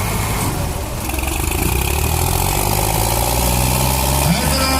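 Tractor diesel engine running steadily with a deep low drone, getting a little louder about a second in.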